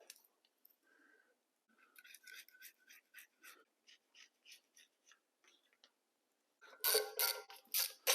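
Light scattered metallic clicks of hand tools, then near the end a ratchet wrench clicking rapidly as it works bolts on a Chevy 350 small-block.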